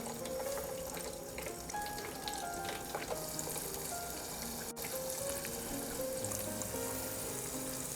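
Flour-and-cornstarch-coated shrimp deep-frying in hot oil, a steady sizzle.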